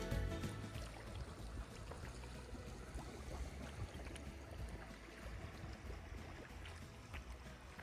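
Kayak being paddled on a river: quiet splashing and trickling water from the paddle strokes.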